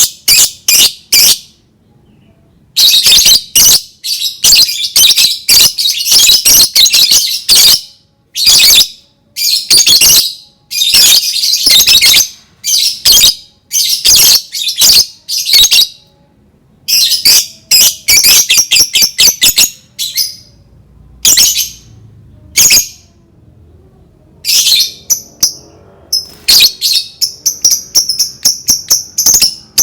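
Lovebird calling in shrill, rapid chattering bursts. Some are drawn out over several seconds as the long 'ngekek' trill that keepers use to set other lovebirds calling, and they alternate with short chirps. Near the end the chatter turns into a quick run of short clicking notes over a high held tone.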